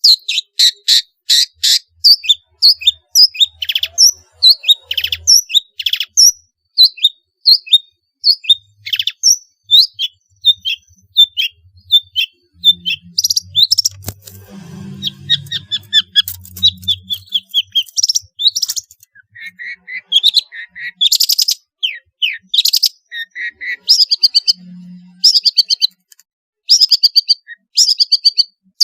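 Long-tailed shrike (pentet) singing a fast, varied song of short, sharp, downward-slurred chirps delivered several a second, with harsher scratchy notes mixed in toward the end.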